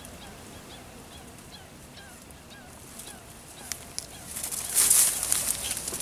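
Faint short bird chirps over quiet open-air background. About four and a half seconds in, a loud rushing hiss swells for about a second, like wind or grass brushing the microphone.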